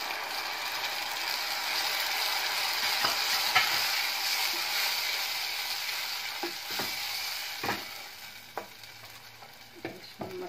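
Ground tomato sizzling as it hits hot oil and fried onions in a non-stick pot, stirred with a spoon scraping the pan. The sizzle fades over the last few seconds, with a few spoon knocks and scrapes.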